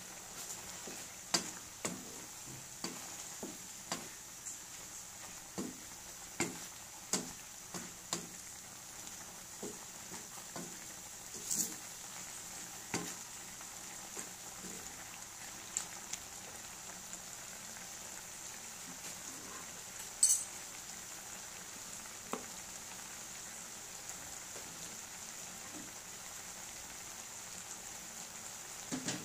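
Meat simmering and sizzling in a thick brown sauce in a metal pan on a gas burner, with a steady hiss. A spatula stirs it, making sharp clicks and taps against the pan that are frequent in the first half and sparser later.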